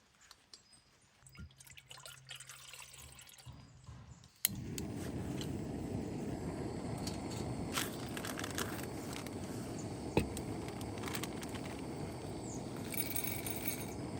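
Quiet with a few small clicks, then about four seconds in a steady liquid sound starts abruptly and runs on, with scattered light clicks over it.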